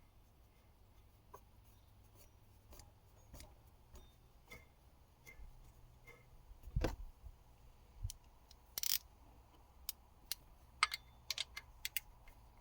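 Scattered clicks and light metallic taps of hand tools working on an accessory-belt pulley with the engine stopped, with a heavier knock about seven seconds in, a brief rasp around nine seconds and a quick run of sharp clicks near the end.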